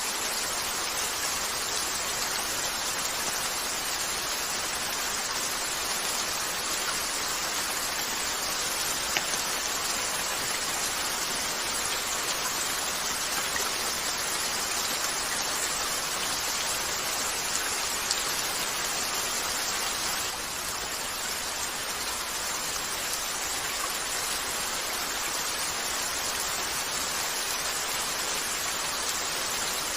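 Steady rain falling on a window, an even hiss with a few isolated sharp clicks, such as fire crackles, and a slight drop in level about two-thirds of the way through.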